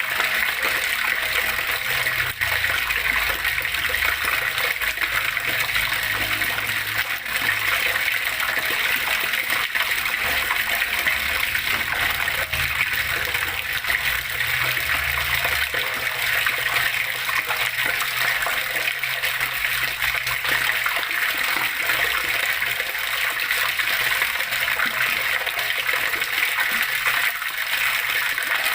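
Flowing water splashing steadily, an even rushing sound with a low rumble underneath that comes and goes in the first half.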